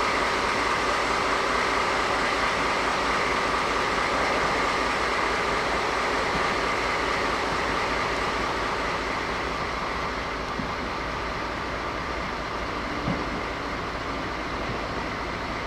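A train running at a station: a steady rumbling noise with a faint steady whine, easing off a little in the second half. A single small knock comes near the end.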